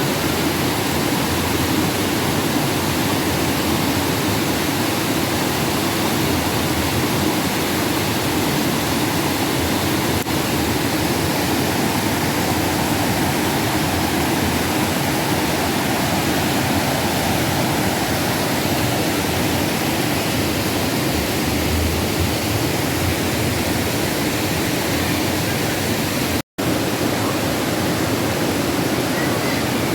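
Steady rush of flowing water from a river or spring, an even hiss across all pitches; it drops out for a split second near the end.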